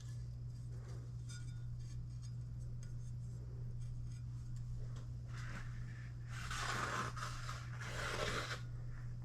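Kitchen knife blade scraped across a sharpening stone: about four strokes in the second half, after a few light ticks.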